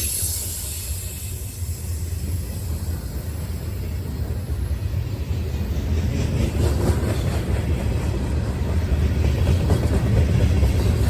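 CSX freight train rolling past, a steady low rumble of wheels and cars on the rails that grows a little louder toward the end.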